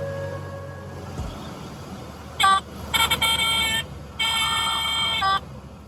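Car horn honking three times: one short toot, then two longer blasts.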